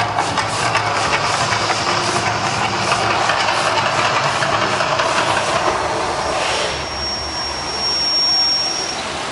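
Steady, loud roar of the Mirage volcano show's fire effects, with a thin high whistle lasting about two seconds near the end.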